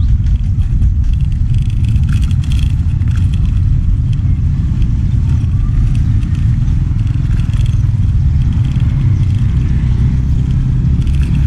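A steady, loud low rumble of a vehicle on the move, with a few faint short higher sounds now and then.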